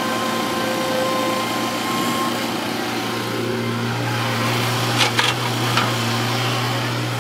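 Heavy diesel earth-moving machinery running steadily, with a few sharp metallic knocks about five seconds in.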